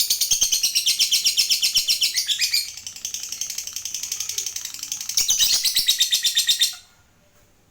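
Lovebird 'ngekek': a long, rapid, high chattering trill of about ten notes a second, softer for a couple of seconds in the middle, that breaks off sharply about seven seconds in.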